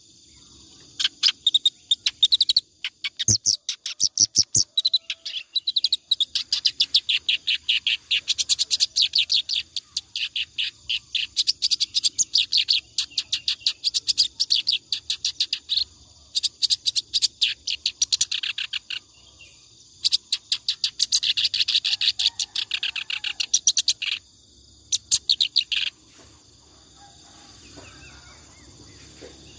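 Kerak basi reed warbler singing nonstop in long, fast phrases of rapidly repeated chirping notes, with short breaks, until it stops about 26 seconds in. A faint steady insect-like hiss remains after that.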